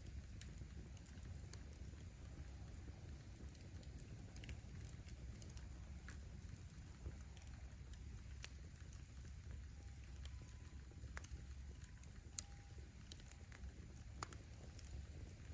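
Firewood burning in a campfire: a faint steady low rumble with scattered small crackles, and one sharper pop of the wood about twelve seconds in.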